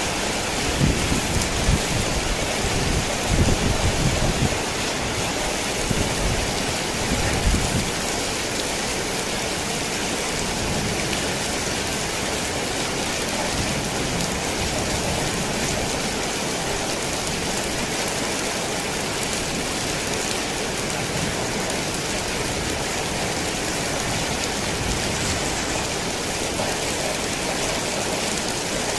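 Heavy rain drumming steadily on a tin roof, a dense even hiss. Thunder rumbles low under the rain for the first several seconds, then fades, leaving only the rain.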